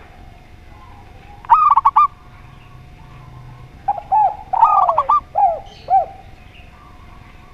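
Spotted dove and zebra dove calling: a quick run of arching cooing notes about a second and a half in, then a longer string of cooing notes from about four to six seconds in. A faint steady hum lies under them.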